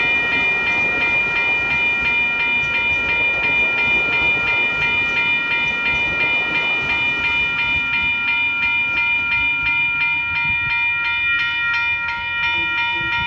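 Level crossing warning bells ringing continuously with rapid, evenly repeated strikes, over the rumble of a passing train that fades in the second half.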